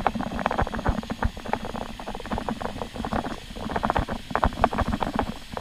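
Muddy floodwater of the Whitewater River in flash flood, rushing and splashing as a dense, irregular crackle.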